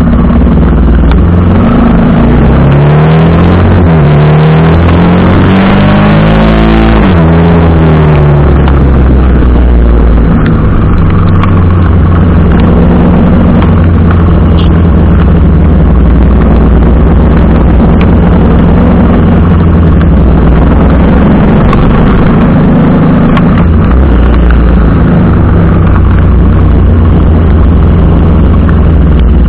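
TVS Apache RR 310's single-cylinder engine revving up in pitch and dropping back several times, as it climbs through the gears. After about seven seconds it runs steadily at speed under a heavy, continuous rumble.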